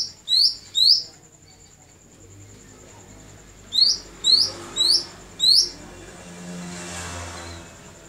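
A caged bird chirping: three short, sharp chirps at the start and a run of four more about four seconds in, over a faint steady high whine. A soft rushing noise swells and fades near the end.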